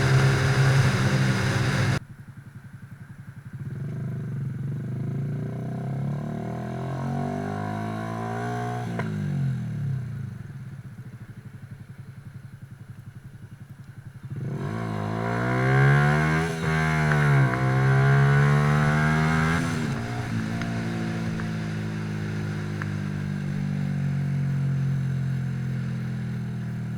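Motorcycle engine running, its pitch rising and falling as it revs and eases off. The sound drops sharply about two seconds in and comes back louder about halfway through.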